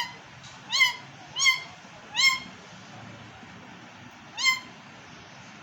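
A parrot calling: short squawks that rise and fall in pitch, four in quick succession about three-quarters of a second apart, then one more after a pause of about two seconds.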